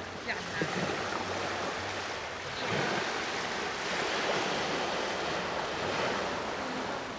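Sea waves washing in on the shore, the surge swelling about two and a half seconds in and easing off near the end.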